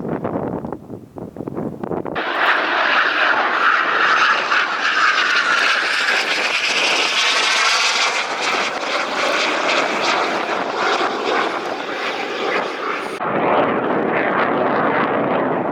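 F-16 fighter jet flying past with a loud jet roar, the pitch sweeping as it goes by, coming in suddenly about two seconds in after wind noise on the microphone. Near the end the roar abruptly loses its high, hissing part and goes on duller.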